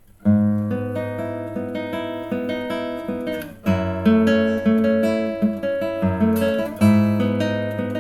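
Cedar-top acoustic guitar with Indian rosewood back and sides being played, bass notes and chords ringing out. It starts about a quarter second in after a brief pause, with strong fresh attacks near the middle and again about two-thirds of the way through. Picked up by a laptop's built-in microphone.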